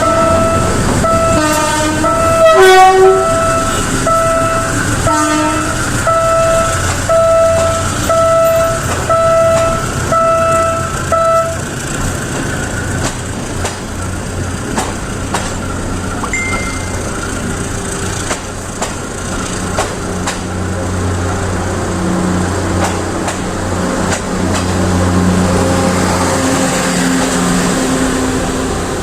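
Train horn sounding a long run of short toots, about one a second, for the first dozen seconds. Then the train's engine drone takes over and grows louder later on, with scattered clicks of wheels over rail joints.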